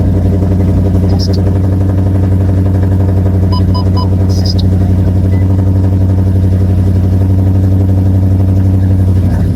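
Dodge Charger's 5.7-litre Hemi V8 running at a steady fast idle just after a cold start. Three short electronic chime beeps sound about three and a half seconds in, and the idle drops to a lower, deeper note at the very end.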